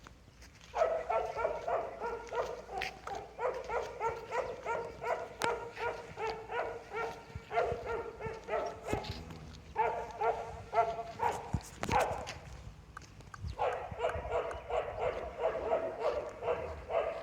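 A dog barking over and over in long, rapid runs of several barks a second, with short pauses between the runs.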